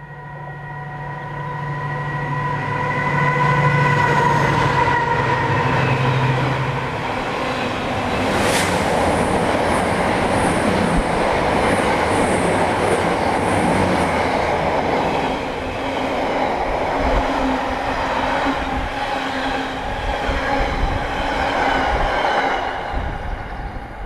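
A freight train passes at speed. First comes the locomotive's steady pitched engine note, then a long rake of box wagons rumbling and rattling over the rails, with a sharp clank about eight seconds in. The noise drops away quickly as the last wagon clears.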